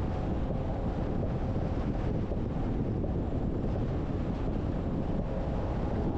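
Steady rush of wind and road noise from a car driving, with wind buffeting the microphone.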